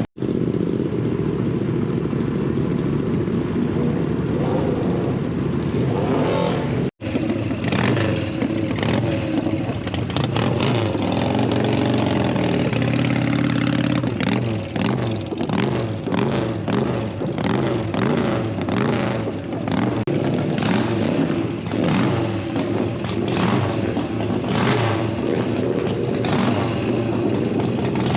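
Motorcycle engines running and revving, loud and continuous, with a regular beat of sharp strokes through the second half.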